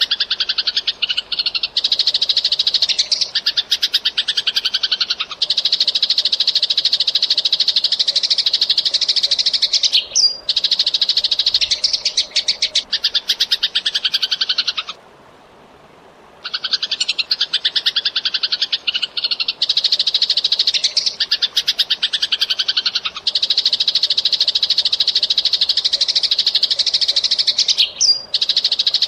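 Eurasian tree sparrow chirping very fast in dense, unbroken runs of high chirps, stopping for about a second and a half midway and then starting again.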